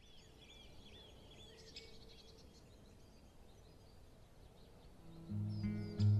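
Outdoor ambience with small birds singing: a quick series of short, repeated chirping notes in the first two seconds, then scattered chirps. Music comes in about five seconds in.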